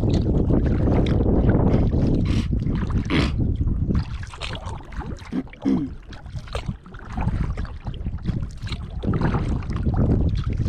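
Kayak paddle dipping and splashing in the water, stroke after stroke, with wind rumbling on the microphone that eases in the middle and picks up again near the end.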